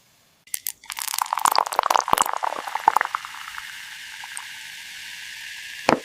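Water pouring and splashing into a small container for about two seconds, settling into a steady trickle, with a short soft knock near the end.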